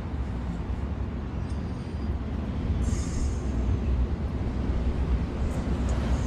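Train passing: a steady low rumble that slowly grows louder.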